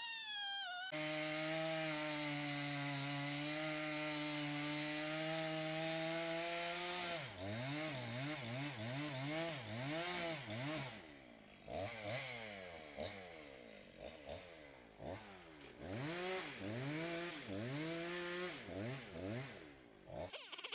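Chainsaw running at a steady high pitch for several seconds, then revving up and down again and again with the throttle, before dropping away near the end.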